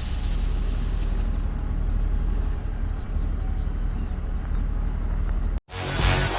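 An engine running steadily with a low, even throb, which cuts off abruptly near the end; music starts right after.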